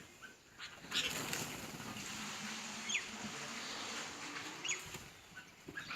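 Feeding birds giving a few short, sharp chirps over a steady rustling hiss.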